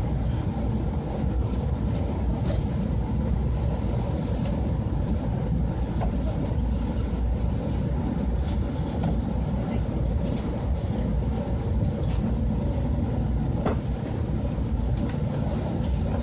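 Steady low rumble of an E2-series Shinkansen running on the line, heard from inside the passenger cabin.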